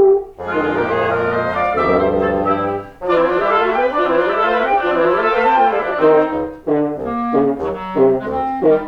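Wind quintet of flute, oboe, clarinet, bassoon and French horn playing live classical chamber music. After brief pauses near the start and about three seconds in, the parts run on together, and the last few seconds turn to short, detached notes.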